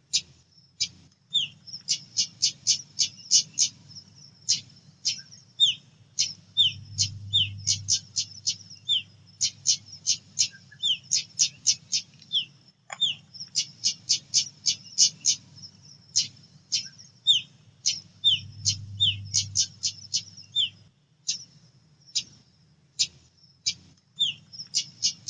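Female pied bushchat (decu) calling: quick runs of sharp, high chip notes, several a second, with the odd lower falling note mixed in. A faint low hum sits underneath.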